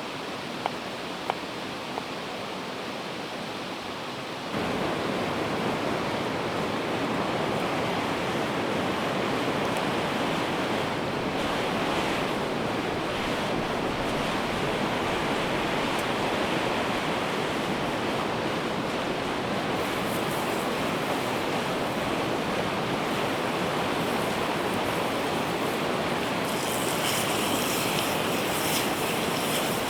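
Steady rushing of river water, which jumps louder about four and a half seconds in and then holds steady.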